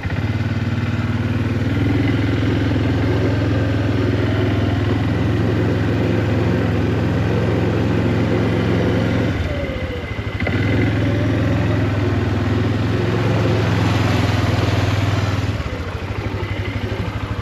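Engine of a small off-road vehicle running under throttle while driving along a dirt road. It eases off briefly about ten seconds in, then picks up again and eases off near the end.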